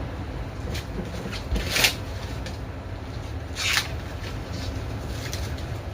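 Kitchen handling noises during vegetable preparation: two short rustling swishes about two seconds apart, with a few faint clicks, over a steady low hum.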